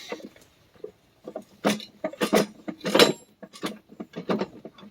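Irregular clinks, knocks and scrapes of metal parts being handled and shifted, as the tractor's front axle parts are worked into line by hand.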